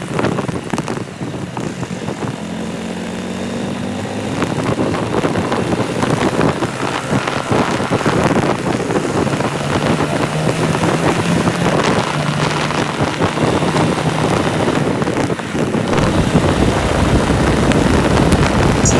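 Motorcycle engine running on the move, with wind buffeting the microphone; its pitch climbs about two seconds in and then holds steady.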